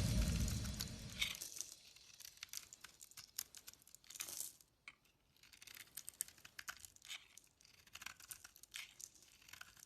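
Faint crisp crackling and clicking of a blade cutting through dry soap, in short irregular bits, as music fades out over the first second or so.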